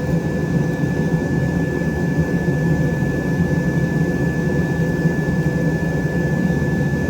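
Forge running with a steady roar and a thin, steady high whine over it, with no hammer strikes.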